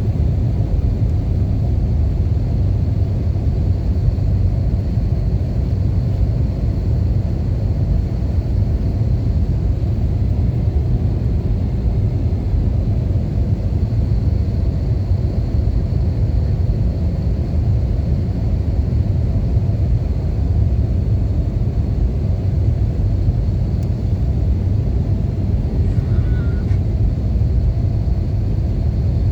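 Airplane noise during a landing: a steady low rumble with a faint high whine above it, unchanging throughout.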